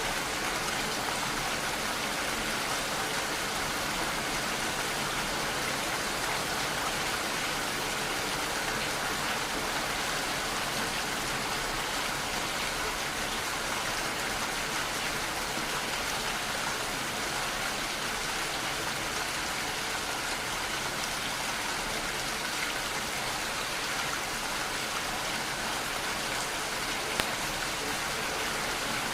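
Steady rainfall, an even hiss of drops falling on surfaces, with one faint tick near the end.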